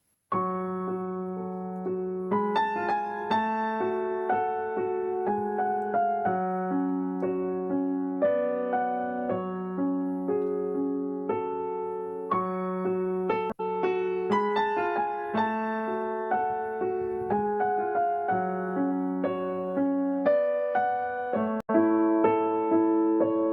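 Soft piano music, a run of gently struck notes that each ring out and fade, briefly cutting out twice.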